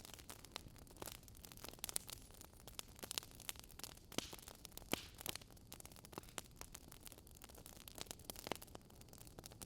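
Burning wood logs crackling, with irregular sharp pops and snaps scattered over a soft steady hiss of the fire.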